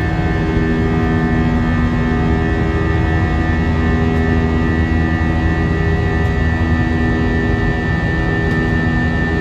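Cabin noise of an Airbus A319 airliner's jet engines, heard from inside the cabin: a steady low rumble with an unchanging high-pitched whine over it.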